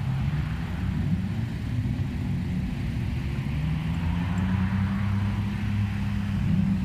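Car engine running, its pitch rising slowly in the second half.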